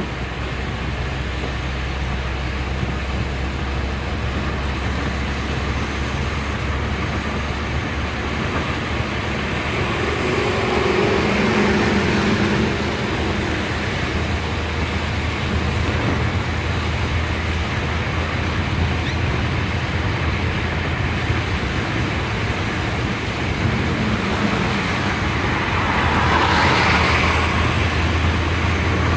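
Car driving on a road: steady engine rumble and tyre-on-road noise, swelling louder briefly about ten seconds in and again near the end.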